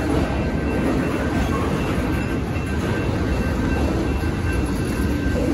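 Freight train cars (tank cars and a covered hopper) rolling past: a steady rumble and clatter of steel wheels on the rails.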